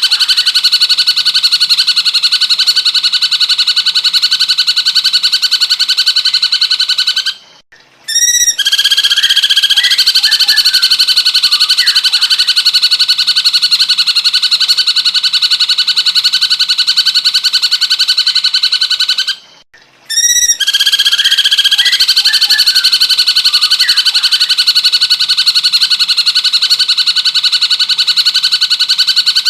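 Cucak cungkok song played loud: a dense, very fast trill that runs on steadily. It breaks off twice, about 8 and 20 seconds in, each time for under a second, and a short call rings out before the trill resumes.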